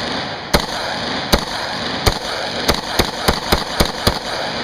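AR-15 rifle firing tracer rounds semi-automatically: nine sharp shots at uneven spacing, coming faster near the end until the magazine runs empty. Under the shots runs a continuous loud rushing noise that begins with the first shot and fades after the last.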